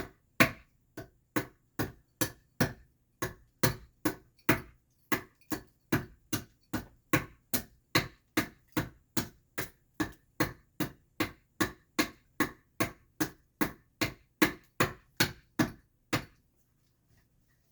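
Hand adze chopping into alderwood to hollow out the back of a carved mask: a steady run of sharp chops, a little over two a second, that stops about sixteen seconds in.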